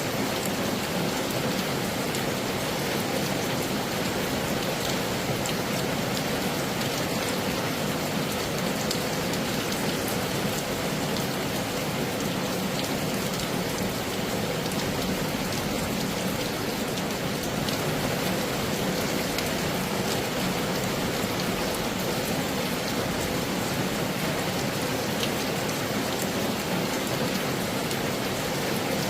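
Heavy rain falling steadily, a dense even hiss with a few scattered drop ticks.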